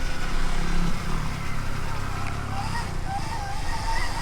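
Rushing wind and a low rumble from riding a Stark Varg EX electric motocross bike over the track. From about halfway through, a thin whine wavers up and down in pitch with the throttle.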